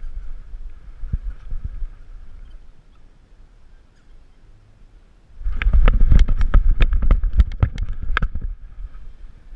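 Rapid, irregular knocking and rattling of a GoPro camera bouncing on a dog's harness, with heavy low thumps, lasting about three seconds from around the middle. Before it there is only low rumbling handling noise.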